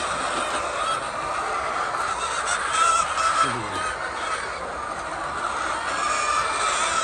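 A large flock of chickens clucking and calling continuously, many birds overlapping into a steady chatter.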